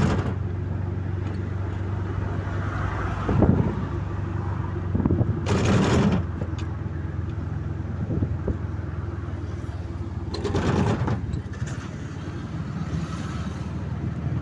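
A motor vehicle's engine running steadily, with louder swells of road or traffic noise twice and a few knocks.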